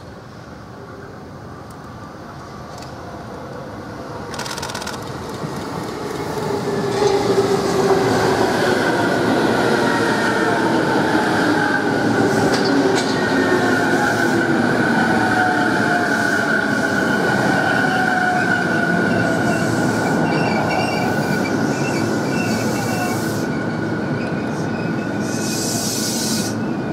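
JR East E233-series electric commuter train approaching and passing: the sound builds over the first several seconds to a loud, steady rumble of wheels on rail. Over it run a steady high whine and lower tones that slowly fall in pitch, with occasional clicks.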